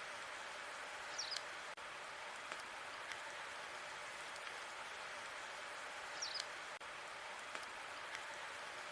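Log fire burning in a fireplace: a steady hiss with scattered crackles and pops, and twice a short high squeak falling in pitch.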